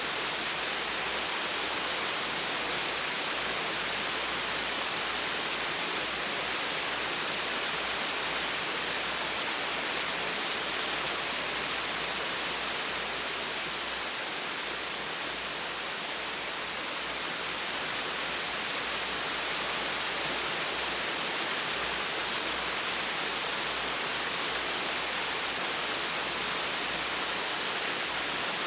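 Gentle waterfall: a steady rush of falling and splashing water.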